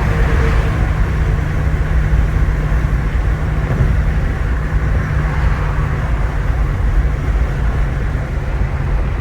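BMW G80 M3's twin-turbo inline-six running at a steady engine speed while the car cruises, with road and tyre noise underneath.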